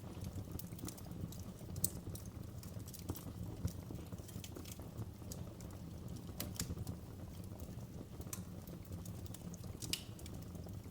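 Wood fire crackling in a fireplace: irregular sharp pops and snaps over a steady low rumble, with a few louder pops about two seconds in and near the end.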